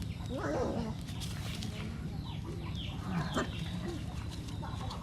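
Chickens clucking in short calls, with small birds chirping in quick, falling chirps over a steady low hum.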